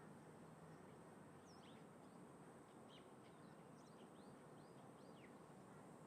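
Faint low wash of wind and distant traffic, with a small bird giving a quick run of thin, high chirps in the middle.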